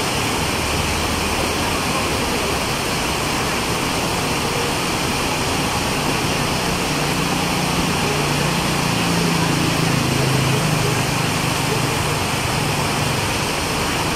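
Heavy rain pouring steadily onto a flooded street, a dense hiss. Partway through, a motorbike's engine hum rises as it passes through the water, then fades near the end.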